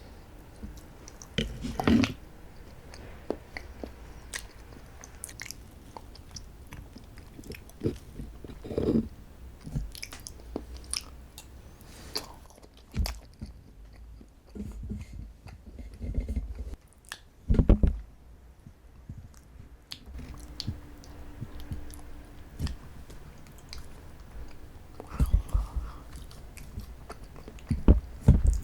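Close-miked chewing and biting of strawberry desserts: irregular wet small clicks and mouth sounds, with a few louder bites scattered through.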